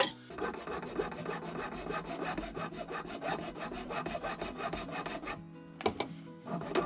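Hand file rasping in quick back-and-forth strokes on a brazed metal build-up on a motorcycle speedometer drive, shaping it into a peg. The filing stops about five seconds in, followed by two sharp knocks.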